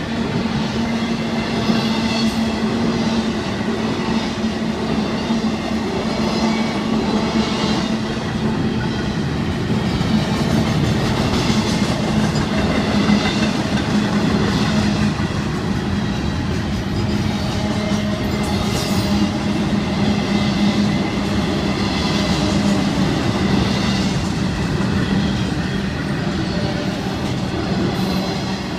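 Florida East Coast intermodal freight cars, double-stack container cars and trailers on flatcars, passing steadily at speed: a continuous rumble of steel wheels on rail with a steady hum and repeated clacking as wheelsets cross rail joints.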